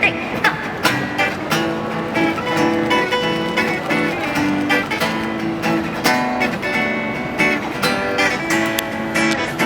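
Acoustic guitar strumming chords, an instrumental passage between sung lines of a live pop ballad.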